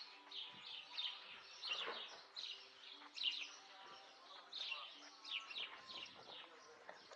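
Small birds chirping, a steady run of short, high chirps, many of them sliding down in pitch.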